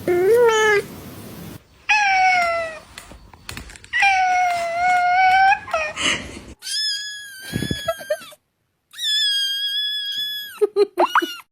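Domestic cats meowing: a run of separate drawn-out meows, the longest lasting about a second and a half. The later meows are higher-pitched, and a few short, quick meows come near the end.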